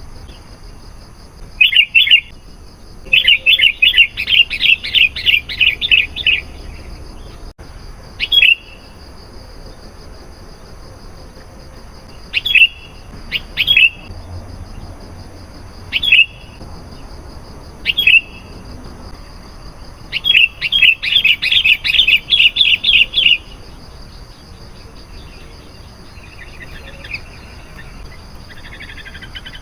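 Sooty-headed bulbul calling: short bursts of quick chirps, two long rapid runs of notes (one a few seconds in, one about two-thirds of the way through) and single calls spaced a few seconds apart in between.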